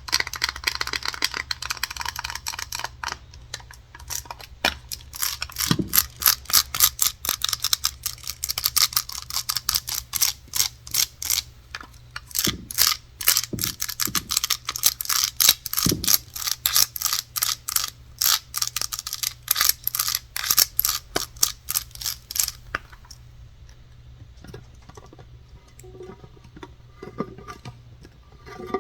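Rapid tapping on a hard surface, most likely wood, many quick sharp taps a second. About 23 s in it drops to much quieter, softer tapping and rubbing.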